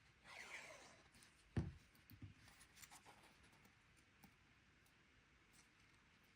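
Faint rustling of cardstock being handled and folded while a tab is glued, with a soft tap about one and a half seconds in and a few light ticks after.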